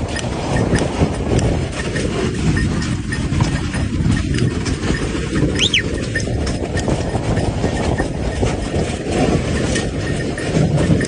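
Horse-drawn sleigh running over lake ice: a steady rumble of the runners with scattered clicking of hooves, and one short high squeak about halfway through.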